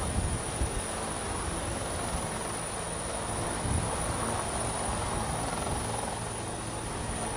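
Helicopter running: a steady engine and rotor noise.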